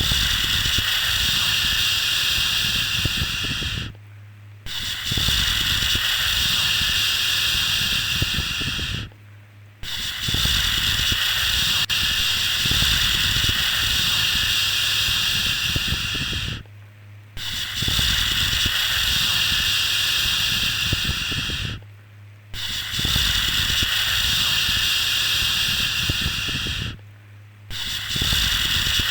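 Repeated long shushing 'shhh' sounds, a steady hiss for calming a baby to sleep, each held for about four to seven seconds with a brief break of about half a second between them.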